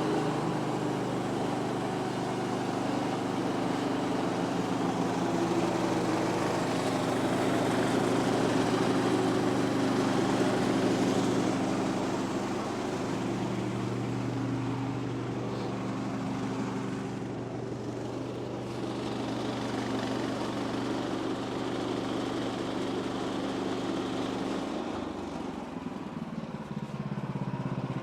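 Woodland Mills HM126 portable bandsaw mill running: its gas engine holds a steady note under load while the band blade saws through a log, adding a dense hiss. Near the end the engine note changes.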